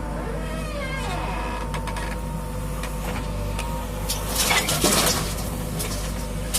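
Heavy diesel machinery running steadily, with squealing tones that slide down in pitch near the start and a burst of metallic rattling about four to five seconds in.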